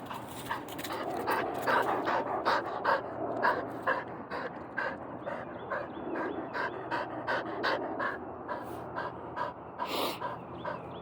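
Dog panting fast and hard, about three to four breaths a second, out of breath from running.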